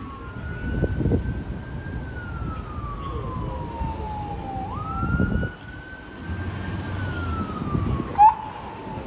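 Police car siren wailing, its pitch rising and falling slowly in long sweeps over traffic rumble, with a short loud blip near the end.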